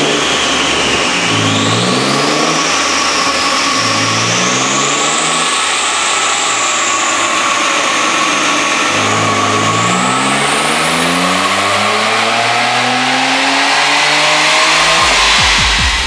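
2003 Nissan 350Z's 3.5-litre V6 with a Greddy twin-turbo kit and Greddy Dual Ti-C exhaust, pulling at full throttle on a chassis dyno, its pitch climbing steadily through the rev range. The run cuts off near the end.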